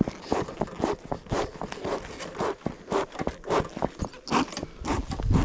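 Bee smoker's bellows pumped over and over, short irregular puffs of air with rustling, to get the smouldering fuel burning.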